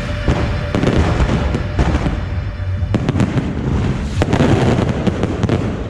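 Aerial fireworks shells bursting overhead in quick succession, a run of sharp bangs and crackling.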